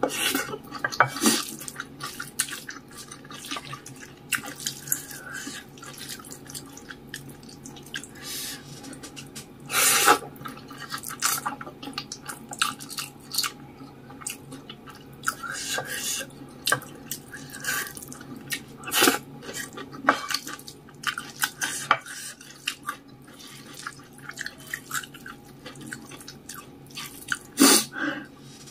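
Close-miked eating of saucy instant noodles with rice: wet mouth clicks and chewing in an irregular patter, with now and then a louder, longer noise. A faint steady hum lies underneath.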